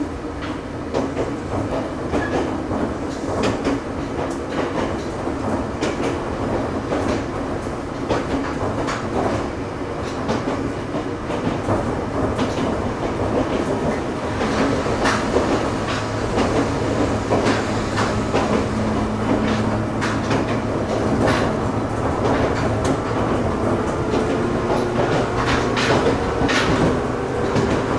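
Local train running, heard from inside the passenger car: a steady rumble with frequent clacks of the wheels over rail joints. It grows louder about halfway through, and a whine rises in pitch near the end.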